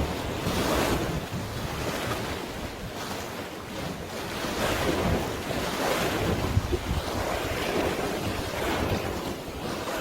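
Wind buffeting the microphone over the wash of sea waves, a steady rush of noise that swells and eases every second or two.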